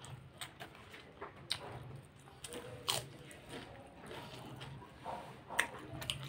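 A person chewing a mouthful of momo dumplings and chow noodles: quiet wet mouth sounds with scattered sharp clicks and smacks.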